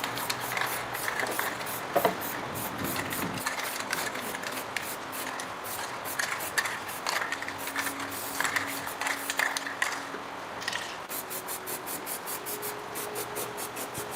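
Repeated hand rubbing or scraping strokes on a surface, a few each second and quicker near the end.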